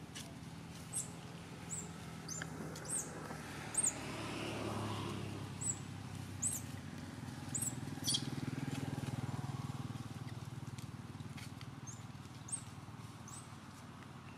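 Small birds chirping: short, high, quick chirps, one every second or so, over a low steady hum.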